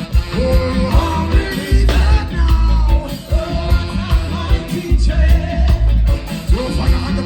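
Live reggae band playing loudly, with a heavy pulsing bass line under a male lead vocalist singing.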